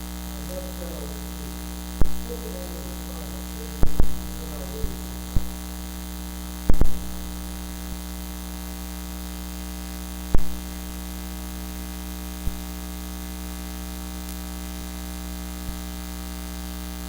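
Steady electrical mains hum in a faulty church sound feed, broken by a handful of sharp pops and crackles, some of them in quick pairs.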